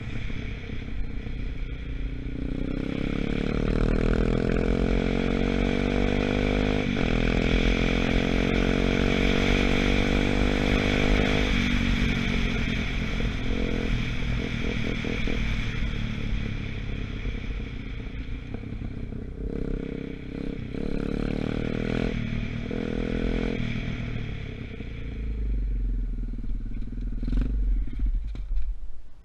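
A 125cc Gunshot dirt bike's engine running under way, still being run in. Its revs climb over the first few seconds and hold, drop sharply about eleven seconds in, then rise and fall unevenly before falling away at the very end.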